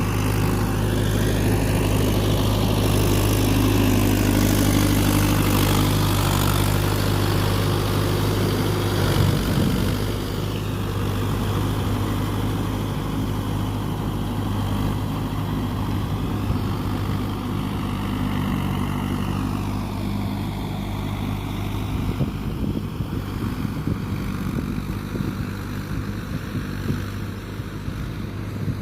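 Mahindra tractor diesel engine running steadily, a little quieter from about a third of the way in.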